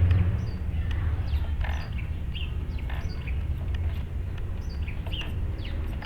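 Birds chirping repeatedly, short falling chirps, over a steady low rumble.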